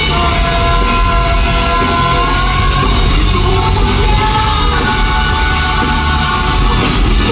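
Loud live rock music over a stadium sound system: a full band with long held notes running over a steady, dense low end.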